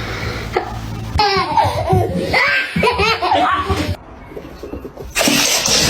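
A person laughing heartily, in high wavering bursts, about a second in and going on for some three seconds.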